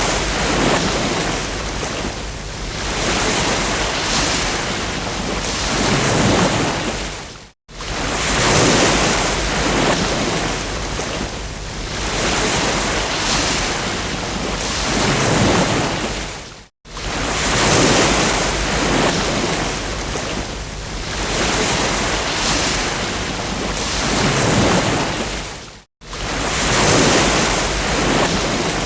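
Ocean waves breaking and washing up a beach, a steady rush of surf that swells and ebbs every few seconds. The sound cuts out completely for an instant three times, about nine seconds apart.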